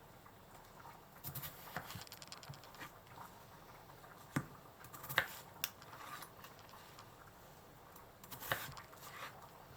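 Kitchen knife cutting ingredients on a cutting board: a quick run of light chops about a second in, then a few single sharper knocks around the middle and again near the end.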